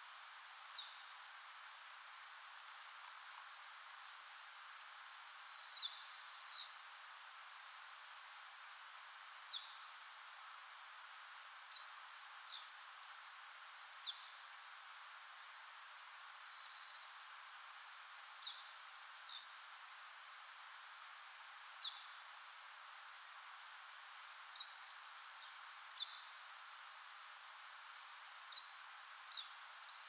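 Small wild birds calling: four very high, thin call notes spaced several seconds apart, with softer short chirps in between, over a steady faint hiss.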